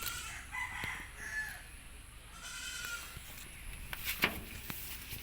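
Several short, faint animal calls in the first three seconds, then a couple of sharp clicks about four seconds in.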